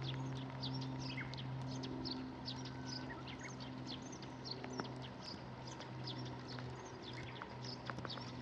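Small birds chirping rapidly and continuously in short falling chirps, over a steady low hum, with a few sharp clicks.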